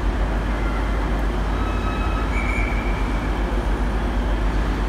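TransPennine Class 185 diesel multiple unit running at the station, a steady low rumble. A faint high whine comes in briefly in the middle.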